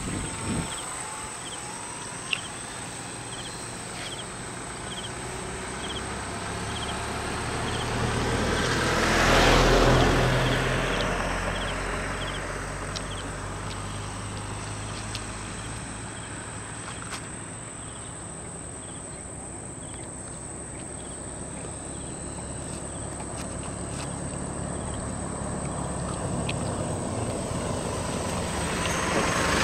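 Radio-controlled model Cessna 182's motor and propeller in flight, passing by: the drone swells to a peak about ten seconds in, fades away, and builds again near the end as the plane comes back round.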